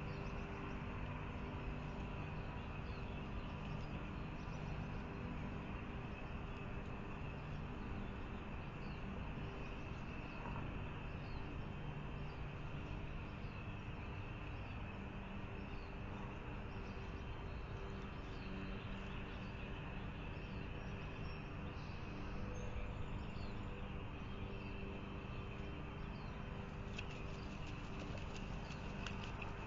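Steady outdoor background hum with faint, scattered high bird chirps.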